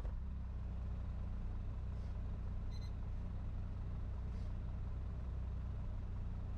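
Suzuki Alto Works CN21S's small three-cylinder engine idling steadily, running after its semi-overhaul.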